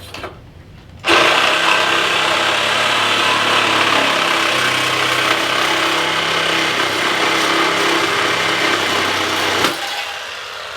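A power cutting tool sawing through a steel motorcycle frame tube. It runs steadily from about a second in and stops near the end.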